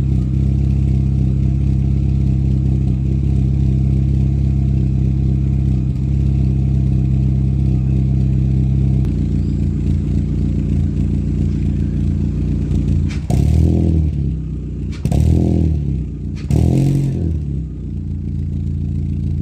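Proton Preve's Campro four-cylinder engine idling through a single-muffler exhaust, its idle note stepping down about halfway through, then three quick throttle blips near the end, each revving up and dropping back to idle.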